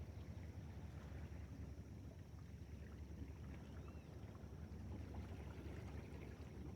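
Faint, steady low rumble of outdoor noise, with a faint short chirp about four seconds in.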